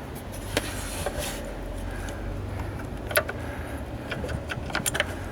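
Scattered metallic clicks and knocks of hand tools and parts being handled during a car battery replacement, with a cluster of quick clinks near the end, over a steady low hum.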